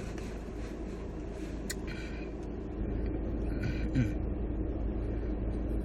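A person chewing food, with short bursts of mouth sounds twice. Under it runs a steady low hum that gets louder about three seconds in.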